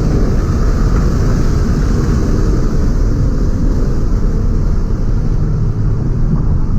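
Ford Mustang GT's V8 engine idling with a deep, steady rumble.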